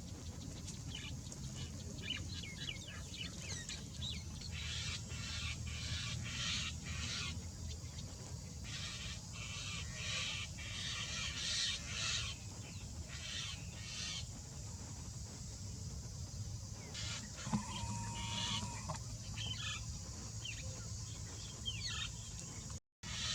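Birds chirping and calling in quick, repeated short notes over a steady low hum, with one held tone for about a second partway through. The sound cuts out briefly near the end.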